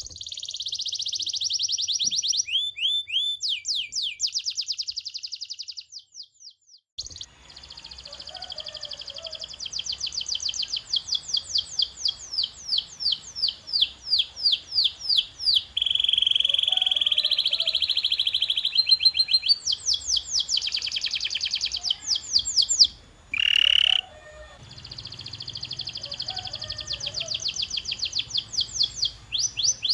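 Canary singing: long, fast trills of rapidly repeated high notes and a held steady note in the middle, broken by short pauses twice.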